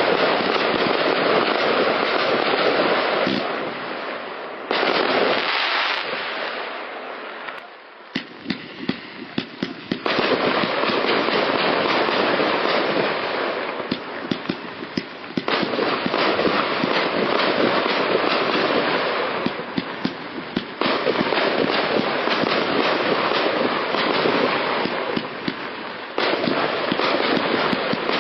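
Kimbolton 'Trigonometry' firework cake firing continuously: a dense run of shots and crackling that changes character every few seconds. A thinner stretch of separate crackles comes about eight seconds in before the full barrage resumes.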